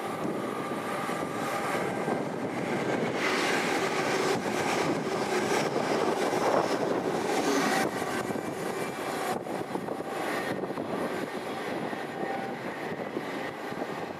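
Train running through the station, its noise building to a peak about six to eight seconds in and then easing off.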